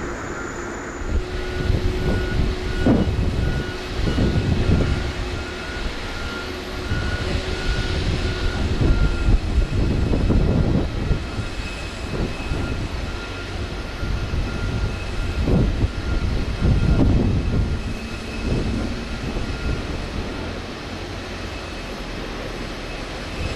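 Jet airliner on the apron, a Boeing 737-800 at pushback: a steady high whine over an uneven low rumble that swells and fades every few seconds.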